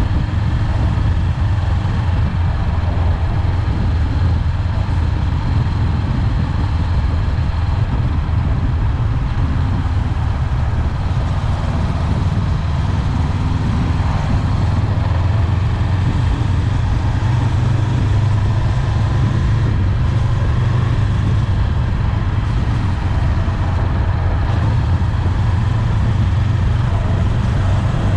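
Honda 400X motorcycle's parallel-twin engine running steadily while riding, its note holding even, with a constant rushing noise over it.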